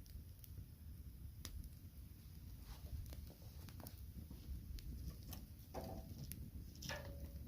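Wood fire crackling in a fireplace: faint, scattered sharp pops over a low rumble, with two short whistles near the end.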